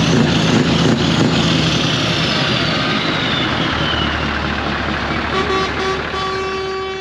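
Diesel lorry engine running close by, a steady low drone. Near the end a steady pitched tone comes in, breaking off and resuming.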